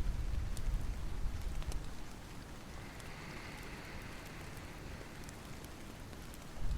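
Rain falling steadily as an even hiss, with sparse sharp crackles from a wood fire. A low rumble in the first two seconds dies away.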